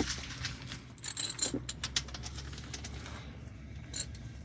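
Scattered light metallic clinks of hand tools, a ratchet and socket being handled under the truck, most of them in the first couple of seconds and a few near the end, over a faint steady low hum.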